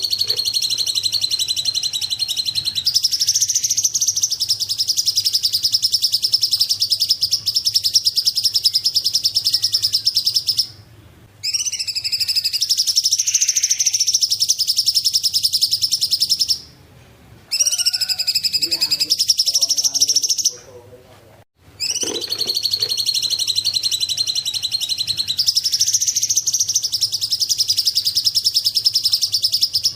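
Cungkok bird singing long, very rapid, high-pitched trills, each phrase running unbroken for several seconds, with short pauses between phrases.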